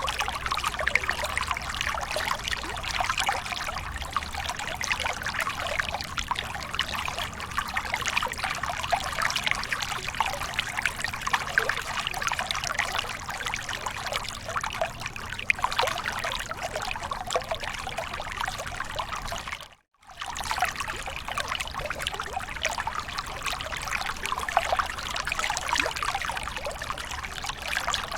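Waterfall water splashing and trickling steadily, with a dense fine crackle of falling drops. It cuts out for a moment about twenty seconds in.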